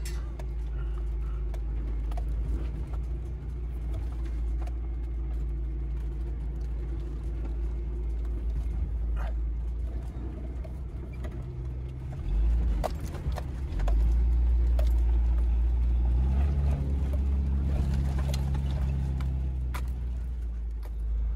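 A 1994 Geo Tracker's four-cylinder engine runs as the little 4x4 crawls a rough dirt trail, with scattered knocks and rattles from the bumps. A little past the middle the engine gets louder and works harder for several seconds, then eases off.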